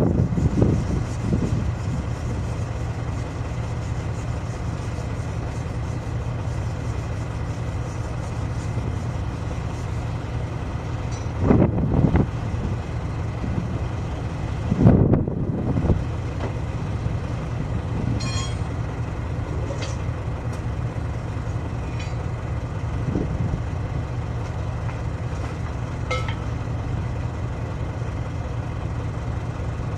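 A heavy diesel engine idling steadily, with two brief louder swells of noise about eleven and fifteen seconds in and a few faint ticks later.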